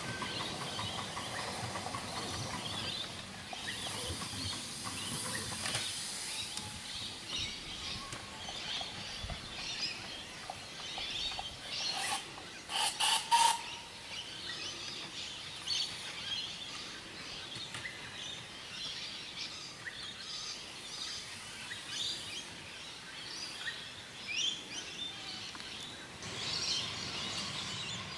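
Birds chirping and calling over steady outdoor background noise, with a short louder cluster of sharp sounds about halfway through.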